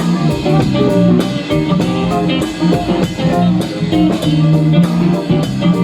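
Live band playing an instrumental passage: guitar with bass and a drum kit keeping a steady beat.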